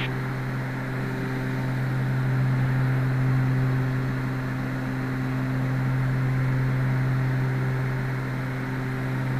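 Cockpit drone of a Twin Cessna's two piston engines and propellers at reduced descent power: a steady, deep hum that slowly swells and fades every few seconds.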